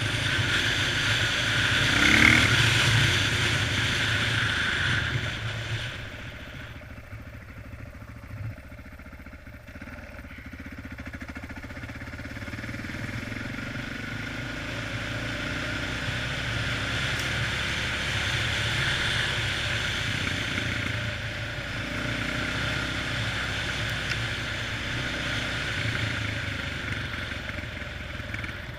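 Honda XR650R's big single-cylinder four-stroke engine running under way. It is loud for the first few seconds, eases off about six seconds in, then builds up again gradually and holds steady.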